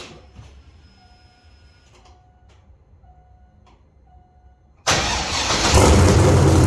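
Faint electronic chime repeating about once a second, then the cammed C5 Corvette's 5.7-litre V8 cranks and fires on a cold start about five seconds in. It catches loudly and settles into a lumpy, loping idle from the aftermarket cam.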